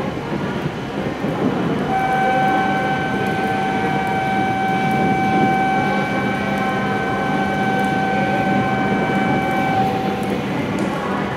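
W7 series Shinkansen train standing at the platform, its equipment giving a steady hum. A steady high tone starts about two seconds in and stops near the end.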